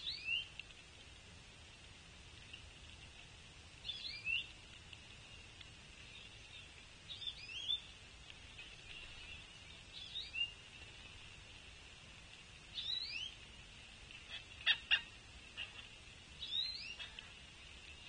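A songbird off camera repeats a short slurred whistled call about every three seconds, six times in all. A few sharp taps come close together about three-quarters of the way through, over a steady high background drone.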